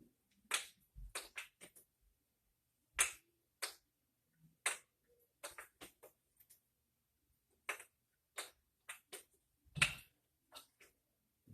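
Wooden kendama clacking as the tama lands on and is caught by the cups and ken during a trick: irregular sharp clicks, some in quick runs of two or three.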